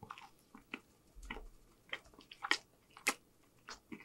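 Close-up mouth sounds of chewing a bite of meatball on French bread: irregular wet clicks and smacks with a little crunch, the loudest about two and a half and three seconds in.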